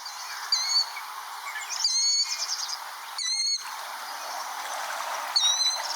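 A small bird giving four short, sharp chirping calls spaced a second or so apart, one with a brief buzzy trill, over a steady background hiss of outdoor ambience.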